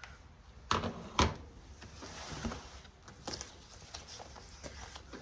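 Two light knocks about a second in, then a soft paper rustle and small ticks: banknotes and savings-binder pages being handled on a table.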